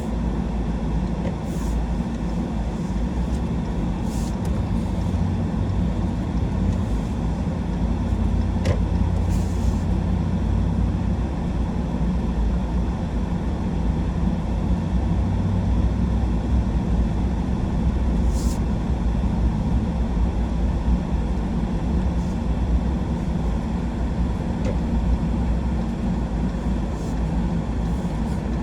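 Truck driving at a steady pace: a continuous low rumble of engine and road noise, with a few faint clicks.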